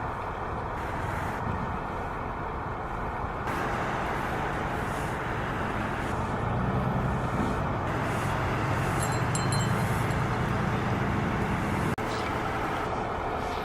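Road traffic on a busy boulevard: a steady hiss of passing vehicles, with a heavier engine growing louder through the middle and dropping away near the end.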